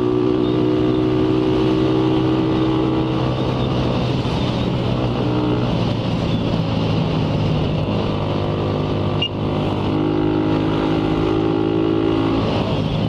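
Motorcycle engine running at a steady cruising speed, its pitch holding fairly level, with wind rushing over the action-camera microphone.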